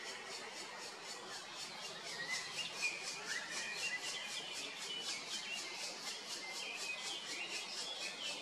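Birds chirping over a steady high-pitched pulsing at about four pulses a second, typical of insects calling.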